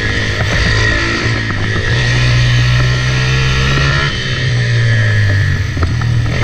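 Kayo 160cc pitbike's single-cylinder four-stroke engine, heard onboard, revving up and down as it is ridden around a tight track. The revs climb over the first few seconds, fall back sharply about four seconds in, then pick up again.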